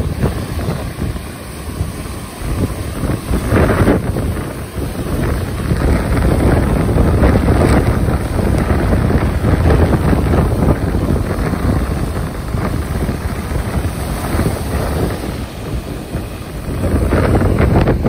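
Ocean waves washing in and surging every few seconds, with wind rumbling on the microphone.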